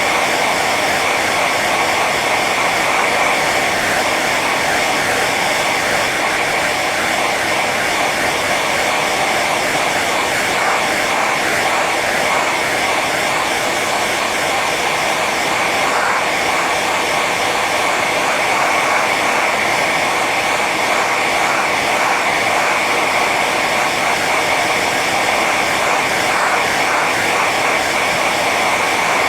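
Hair dryer running steadily on its high setting: a constant rush of blown air over the motor's whine, with a steady high tone in it.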